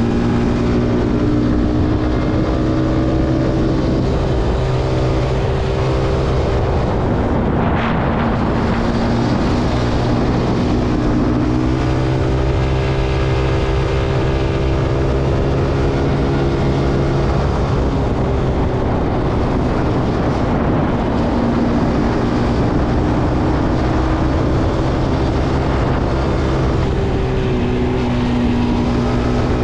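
Zontes C125 motorcycle engine running under way. Its note rises and falls a few times as the throttle and gears change.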